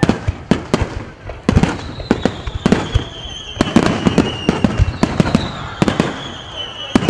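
Fireworks finale: aerial shells bursting in quick succession, bang after bang. From about two seconds in, a high whistle slowly falls in pitch through the bangs.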